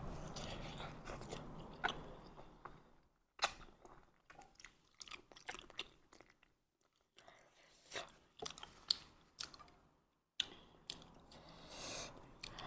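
A person chewing and eating close to the microphone, with irregular short, sharp mouth clicks and crunches.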